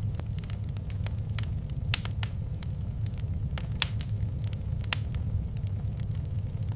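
Wood fire crackling in a fireplace: irregular sharp pops and snaps, the loudest about two, four and five seconds in, over a steady low rumble of the flames.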